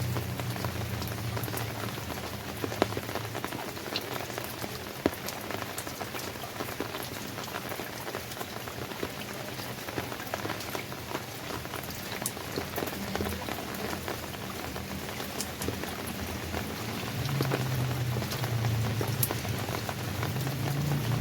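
Steady rain falling, with individual drops striking a surface as scattered sharp ticks. A low hum grows louder near the end.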